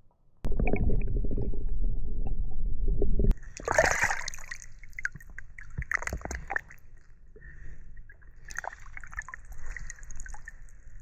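Water at the edge of a boggy mountain tarn sloshing, splashing and gurgling in irregular bursts. It is preceded by a loud low rumble of about three seconds that cuts off suddenly.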